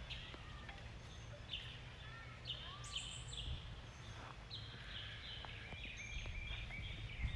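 Small birds chirping and calling in short repeated notes, with a run of quick chirps in the second half, over a steady low background rumble.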